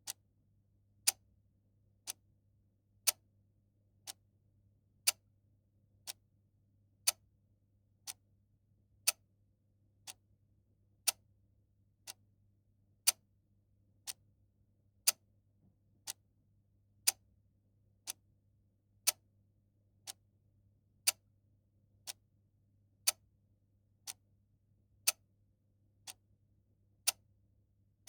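A clock ticking steadily, once a second, with louder and softer ticks alternating in a tick-tock pattern over a faint low hum.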